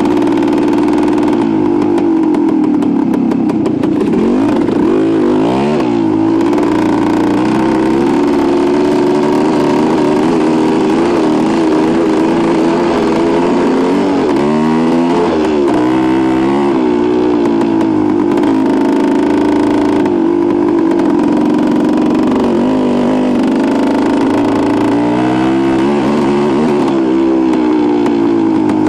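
1973 Suzuki TS250's two-stroke single-cylinder engine running under way, loud and steady, its pitch rising and falling several times as the throttle is opened and eased off.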